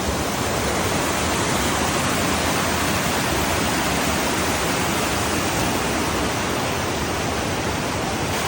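Waterfall: the steady, even rush of falling water close to the microphone.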